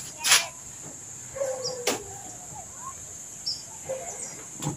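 Outdoor countryside ambience: a steady high drone with short bird-like chirps and calls. Two sharp knocks cut through, the louder one about a third of a second in and another at about two seconds.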